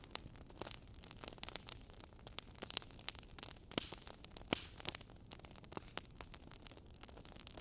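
Wood fire crackling in a fireplace, with irregular sharp pops and snaps, several a second, over a soft steady hiss.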